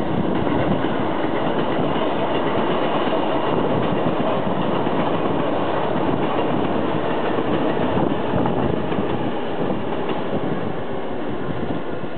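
A Hankyu 8300 series eight-car electric train running past close by: steady rumble of wheels on rail, with the wheels clacking over the rail joints.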